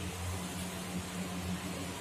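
Chicken pieces and ginger-garlic paste frying in hot ghee in a nonstick pot, a steady sizzle, while being browned to cook off the rawness. A steady low hum runs underneath.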